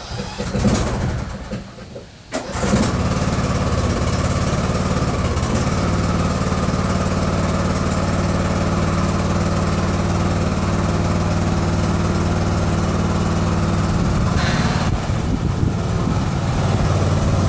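Riding lawn tractor engine cranking for about two seconds, then catching and settling into a steady run.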